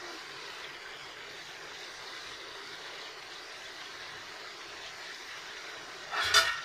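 Chicken and tomatoes sizzling steadily in hot ghee in a large pot, with a short clatter about six seconds in.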